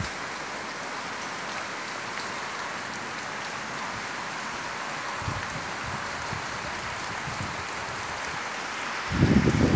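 Steady rain falling, an even hiss with no let-up, with low rumbling buffets about five seconds in and again near the end.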